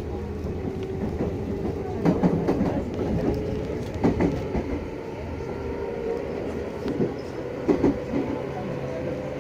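Meitetsu 6500 series electric train running, heard from inside the car: a steady rolling rumble with wheels clacking over rail joints in irregular pairs. A motor tone sits under it and rises slowly in pitch over the last few seconds.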